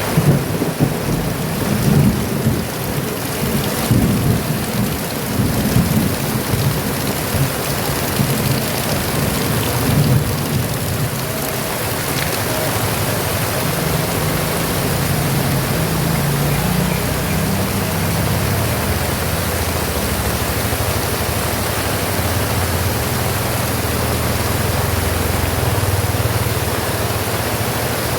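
Heavy rain pouring, with thunder rumbling unevenly through the first half, then settling into a steady downpour.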